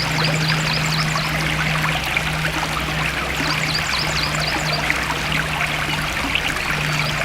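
Forest stream of water flowing and trickling steadily, with clusters of short high chirps over it and a low steady hum underneath.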